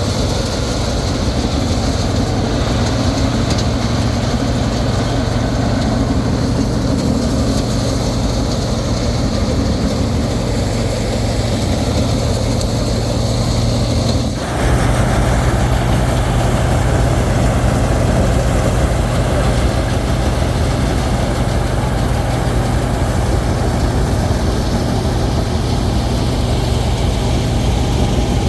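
Combine harvester's engine running steadily with a constant low hum, briefly dipping about halfway through before carrying on.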